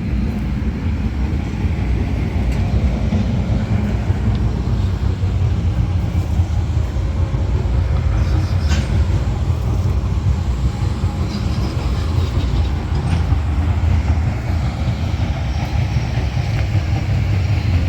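The 2022 Peterbilt 348's PACCAR PX-9 8.9-litre inline-six diesel running with a steady, deep rumble.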